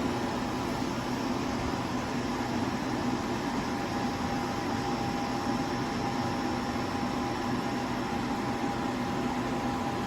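Portable air conditioner (spot cooler) running: a steady fan rush with a constant hum and a few steady tones, one of them a faint high whine.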